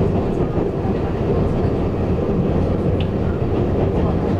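Taiwan Railways EMU800 electric multiple unit running along the line, heard from inside the passenger car: a steady rumble of wheels on rail.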